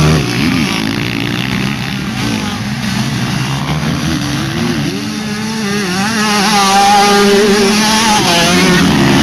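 Several motocross bikes' engines revving and changing gear as they race round the track, the pitch rising and falling; the sound gets louder about six seconds in as bikes come closer.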